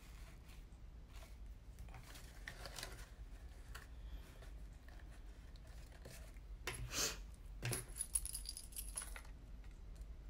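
Cardstock and ribbon being handled as a ribbon is tied around a card: soft rustles and small clicks, with a couple of sharper rustles about seven and eight seconds in.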